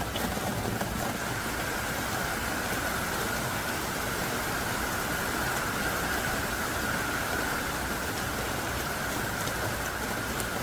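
Heavy rain pouring down steadily in a dense, even hiss of drops, with a few faint separate drips.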